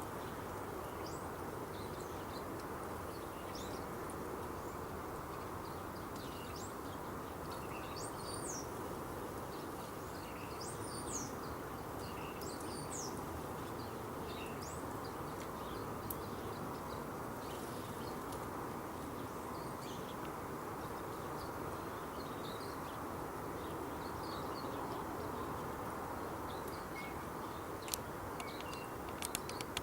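Small birds giving short, high chirps at irregular intervals over a steady background noise, with a few sharp clicks near the end.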